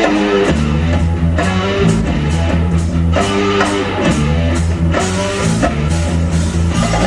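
Rock band playing an instrumental passage: guitar over bass notes and a drum kit keeping a steady beat.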